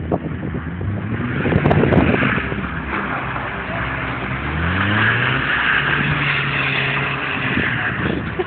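Small hatchback's engine revving hard as the car is driven around on snow. The pitch climbs in several rising sweeps, then holds at a high steady pitch for a couple of seconds before easing off near the end. A hiss runs underneath.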